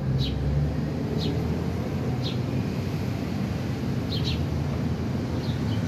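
Small wild birds giving short, sharp chirps that slide downward, about one a second with a quick double chirp past the middle, over a steady low background rumble.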